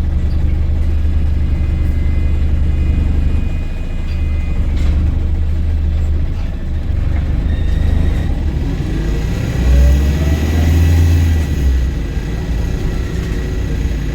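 Volvo B5LH diesel-electric hybrid double-decker bus heard from on board: a steady low engine rumble, then from about eight seconds in a rising whine as the bus speeds up.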